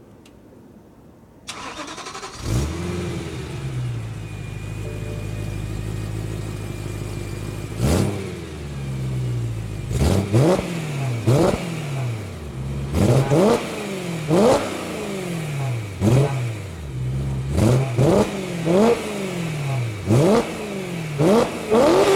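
BMW M3 E92's stock 4.0-litre V8 starting up: the starter cranks briefly and the engine catches with a flare of revs, then settles to a steady idle. From about eight seconds in it is revved hard again and again in quick blips through the stock exhaust, each rise in pitch dropping back toward idle, the blips coming closer together near the end.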